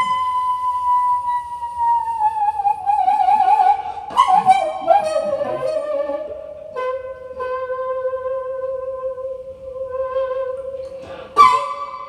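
Recorded daegeum (Korean bamboo transverse flute) improvisation played back through a hi-fi system. A high note bends slowly downward with a wavering vibrato, then a sharp breathy attack about four seconds in slides down to a lower note held for several seconds, and a new sharp high attack comes near the end.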